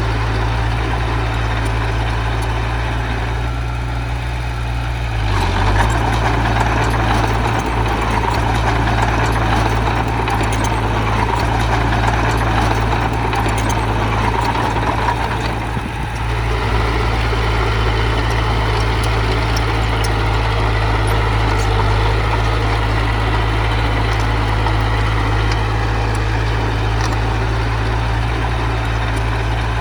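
Diesel engine of heavy earthmoving machinery running steadily, working harder and louder for about ten seconds from around five seconds in, then settling back.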